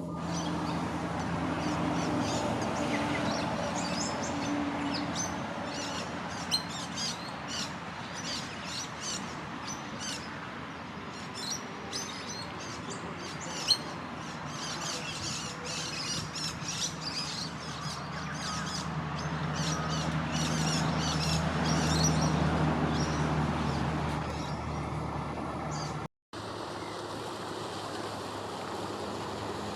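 Many birds chirping and calling in quick, overlapping short notes over a low engine hum that swells louder about two-thirds of the way through. After a sudden cut near the end, the chirping is gone and a steady outdoor hiss remains.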